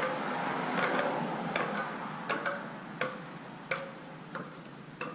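Bicycle wheel spokes plucked one after another to check their tension. Each gives a sharp click and a short metallic ping, about one every 0.7 seconds.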